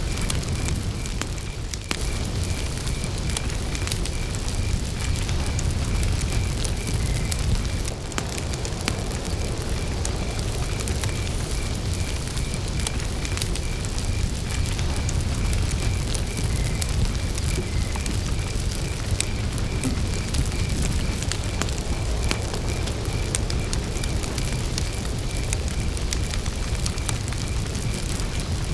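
Wood campfire burning with a steady low rumble and frequent small crackles and pops, while a cricket chirps at an even pace throughout.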